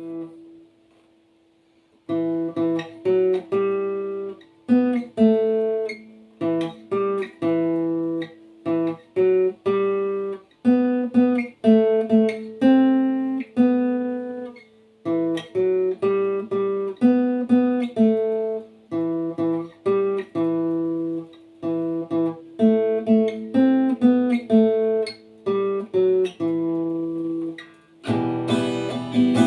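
Acoustic guitar playing a song introduction: a single note, then from about two seconds in a steady picked pattern of separate notes over a ringing string, changing to strummed chords near the end.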